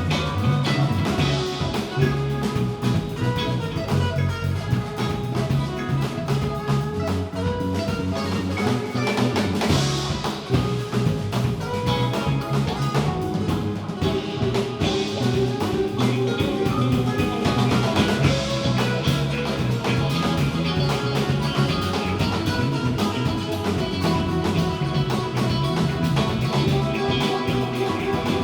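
Live band playing an instrumental passage with guitar and drum kit over a moving low bass line, no vocals.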